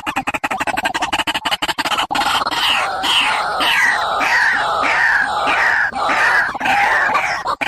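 Barred rail (tikling) calling: a fast rattle of pulses, then a run of harsh down-slurred notes repeated about twice a second, as played to lure birds to a trap.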